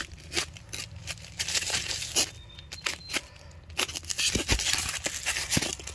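Rustling, crinkling and tearing of packing material and tape being handled, with many small clicks and knocks.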